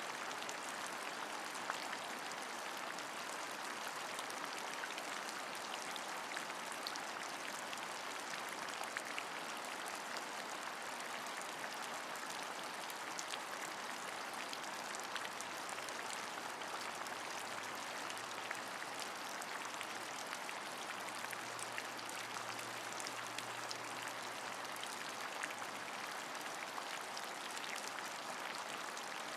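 Steady rain: an even hiss dense with small, sharp drop ticks, without a break. A faint low hum sits under it for a while in the second half.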